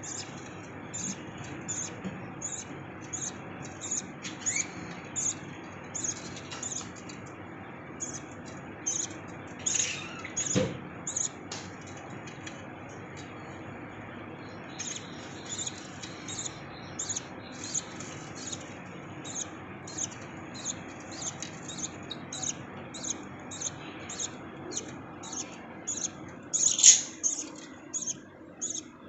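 Lovebirds chirping: a steady series of short, high peeps, about two a second, pausing briefly about halfway and with one louder call near the end.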